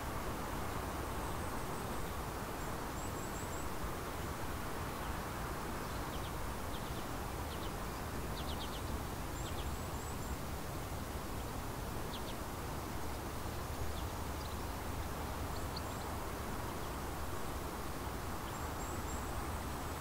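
Faint, high bird chirps and short trills now and then over a steady background hiss with a low rumble.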